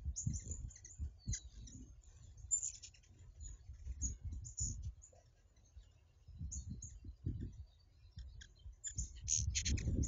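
Birds chirping: short, high chirps scattered throughout and thickest near the end, with irregular low thumping underneath.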